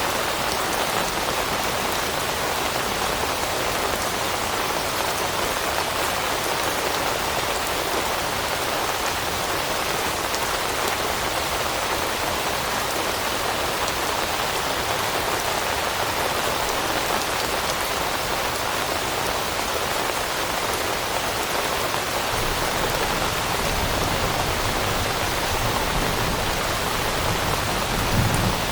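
Steady rain falling on leaves, an even hiss of many drops. A low rumble builds in the last several seconds.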